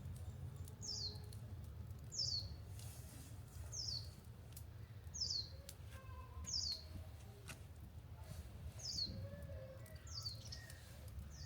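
A bird repeating a short, high call that slides downward, about once every second and a half.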